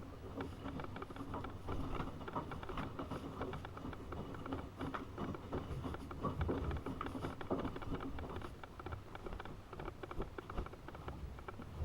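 AEG Öko-Lavamat 72520 front-loading washing machine tumbling its drum, with laundry and water sloshing and pattering inside.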